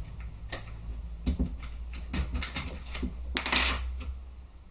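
Light metallic clicks and clinks as a takedown pin is pushed out of an SRC G36K airsoft rifle's body, with a short scraping sound about three and a half seconds in.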